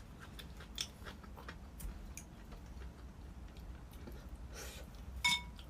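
Faint, scattered clicks and taps of eating utensils against dishes during a meal, with quiet chewing. Near the end there is one louder clink that rings briefly.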